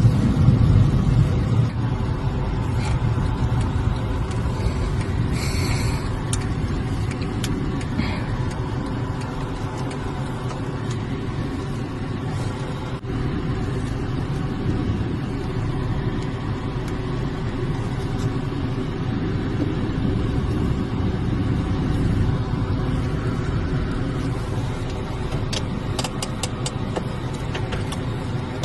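A car driving on a snowy road, with a steady low rumble of tyre and engine noise. A brief high beep sounds about five seconds in.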